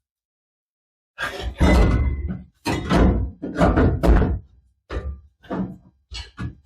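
A series of metal clunks and knocks, starting a little over a second in, as a muffler and tailpipe are worked into their exhaust hangers.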